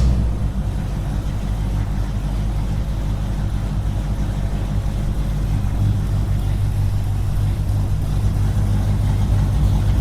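A small motor running steadily with an even, low hum.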